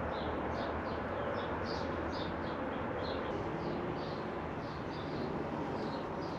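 Small birds chirping repeatedly, several short calls a second, over a steady rushing noise.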